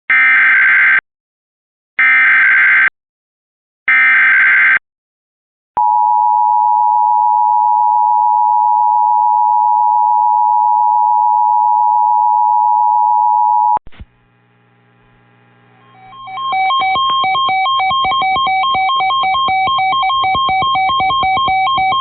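Emergency Alert System tones: three short screeching bursts of SAME header data, then the steady two-tone attention signal held for about eight seconds before cutting off. A synthesized music bed fades in a couple of seconds later.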